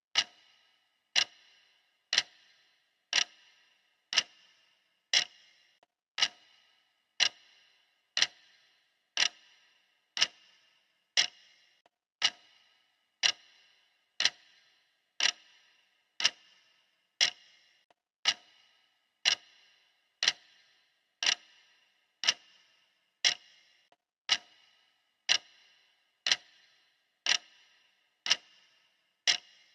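Clock ticking steadily at one tick a second, each sharp tick with a short metallic ring.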